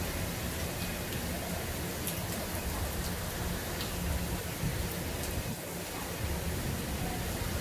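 Heavy tropical rain pouring steadily onto pavement and foliage: a dense, even hiss with a low rumble underneath and a few sharper drops ticking close by.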